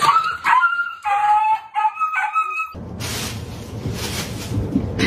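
A run of short, high-pitched animal cries. Then, at an abrupt cut about two and a half seconds in, a steady rushing noise with a low hum.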